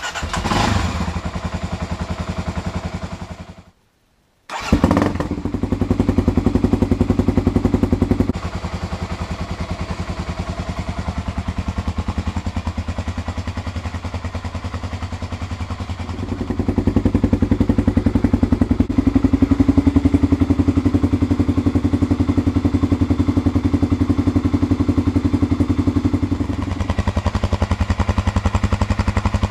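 Kawasaki KLX250S single-cylinder four-stroke engine with a DG O-Series slip-on exhaust and Bomb header pipe, started, dying after about four seconds, then restarted and idling with rapid, even exhaust pulses. Revs are held higher for a few seconds after the restart, and again for about ten seconds from around halfway through, before settling back to idle.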